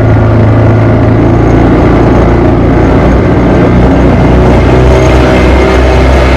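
Motorboat engine running steadily while the boat cruises along the river: a loud, even, low drone.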